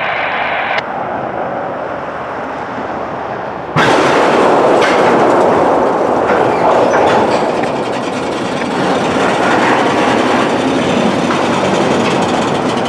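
Norfolk Southern freight train rolling past on the rails, a steady noisy rumble and rattle of wheels and cars. Just under four seconds in the sound jumps abruptly louder and fuller.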